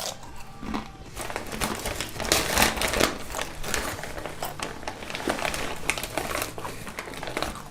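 Hand rummaging through a bag of tortilla chips, with the bag crinkling and rustling in irregular bursts while looking for a well-powdered chip.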